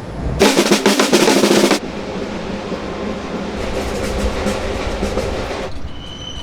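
Rapid drum roll, loud for about a second and a half, followed by quieter drumming that fades out shortly before the end.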